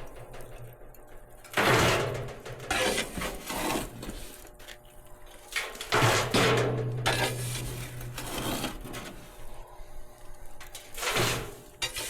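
Metal tool scraping and clanking in the firebox of an outdoor wood boiler as ashes and coals are raked around, in several separate scrapes, with a low hum for a couple of seconds in the middle.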